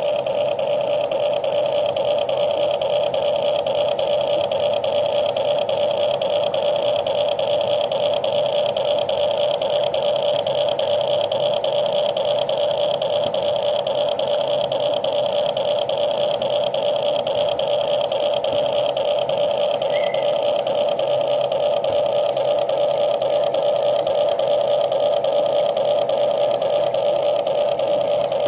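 Small electric motor of a radio-controlled construction model running with a steady, even whine that stays at one pitch throughout.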